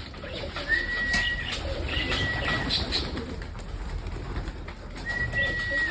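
Racing pigeons cooing, with some wing flapping, and three short level whistled notes about a second and three seconds apart.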